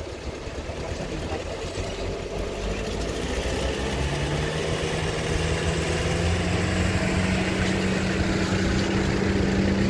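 Truck engine running under load, growing steadily louder; about four seconds in its note rises slightly and then holds steady.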